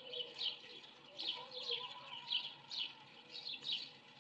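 Birds chirping: a steady run of short, quick chirps that fall in pitch, about two or three a second.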